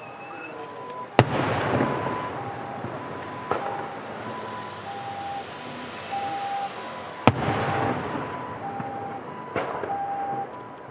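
Aerial fireworks shells bursting: two loud sharp bangs, about a second in and about seven seconds in, each followed by a long rumbling echo, with two lighter pops in between.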